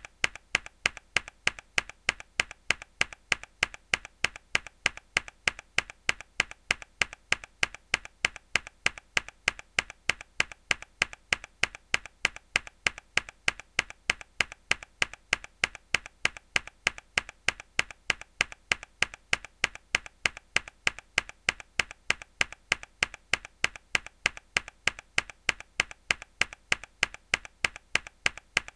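A mechanical keyboard key struck hard again and again at an even pace, about two to three clicky keystrokes a second, each followed by a fainter second click.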